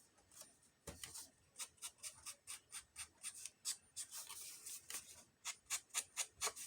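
Ink applicator dabbed and swiped rapidly along the edges of a paper cut-out, darkening the white edges: quick scratchy strokes at about three a second.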